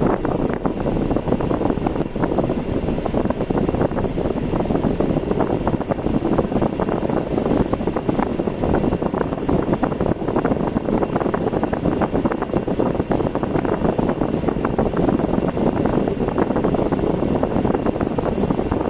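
Steady road and engine noise of a car driving along a street.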